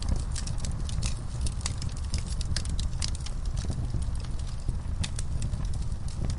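Wood fire in a fire pit crackling and popping, with quick irregular snaps from the burning logs and coals over a steady low rumble of the flames.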